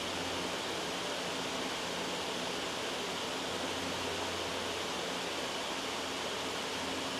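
Loud, steady white noise with an even hiss across the range, and a faint low hum underneath.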